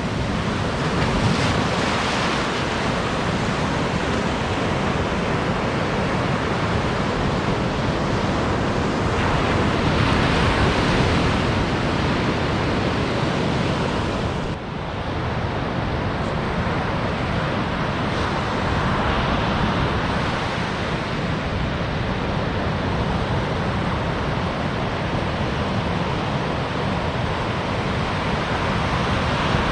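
Ocean surf breaking on a beach: a continuous rushing wash that swells every several seconds as waves come in, with a brief dip about halfway through.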